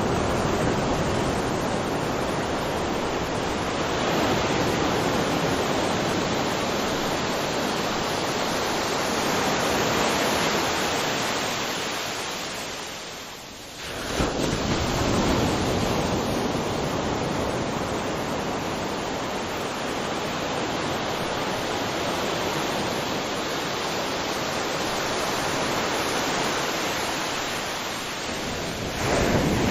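Ocean surf on a beach: waves breaking and washing in a steady rush that swells and ebbs. It dies down about 13 s in, then a fresh wave surges in about 14 s in, and another near the end.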